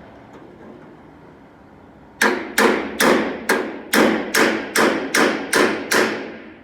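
A hammer striking a sheet-metal panel ten times in a steady rhythm, about two and a half blows a second, each with a short metallic ring. The blows start about two seconds in and stop shortly before the end.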